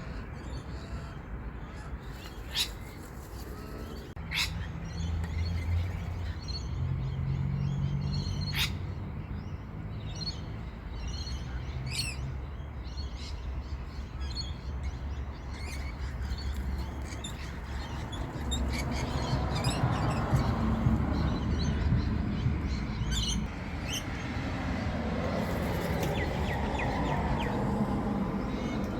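Wild birds chirping and calling in short, sharp notes every few seconds, over a steady low rumble.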